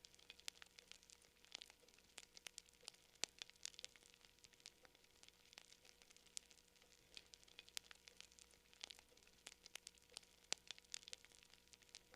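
Campfire crackling: a faint, irregular stream of sharp pops and snaps, several a second, some much louder than others.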